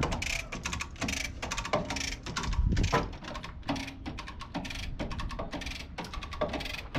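Irregular mechanical clicks and rattles, roughly two a second, from metal hand-tool work on a truck cab, over a low background rumble.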